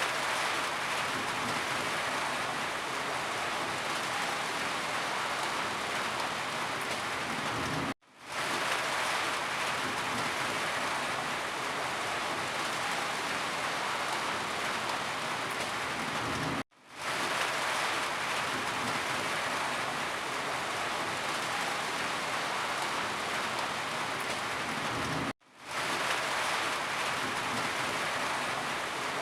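Steady rain falling, a dense, even hiss of drops. It cuts out briefly three times, about every eight and a half seconds, each time fading quickly back in.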